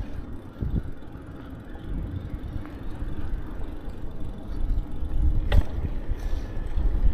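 Wind rumbling on the microphone and rolling noise of a bicycle being ridden, with a single sharp click about five and a half seconds in.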